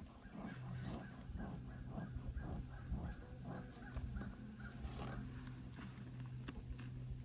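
Honeybees humming steadily at an open hive. Over the first few seconds there is a quick run of short scrapes, about three a second, as frames are worked free, then a few single clicks.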